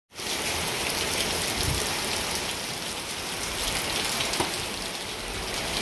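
Heavy rain falling steadily, with one brief knock about four seconds in.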